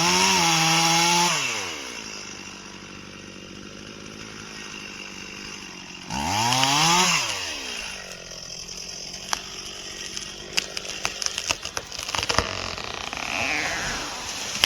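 Gas chainsaw running at full throttle, dropping to idle about a second in, revved once briefly around the middle and idling. Near the end comes a quick run of sharp cracks and snaps of wood breaking as a felled tree goes over.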